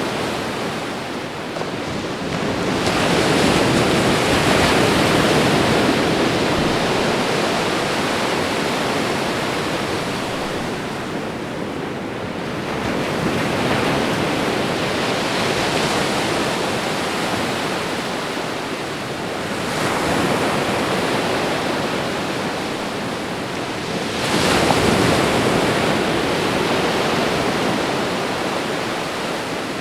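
Ocean waves breaking and washing up the shore, a continuous surf that swells with each breaker about every eight to ten seconds, four times.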